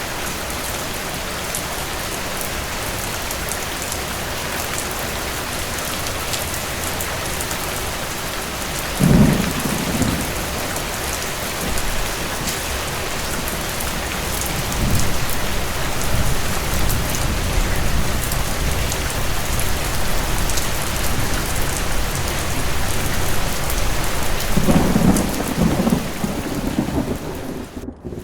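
Steady rain with thunder: a sudden clap about nine seconds in, a lower rumble around fifteen seconds, and a longer rolling rumble near the end. The sound briefly cuts out at the very end.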